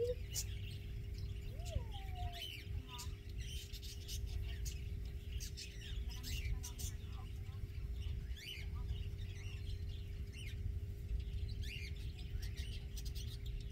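Small birds chirping, short high chirps coming every second or so, over a steady low rumble.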